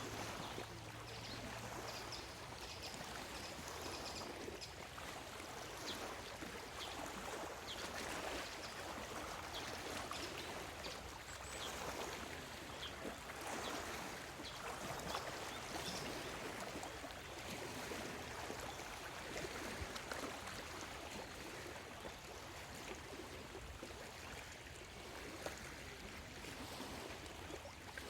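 Small waves on Lake Biwa lapping at the shore: a steady wash of water that swells softly every couple of seconds.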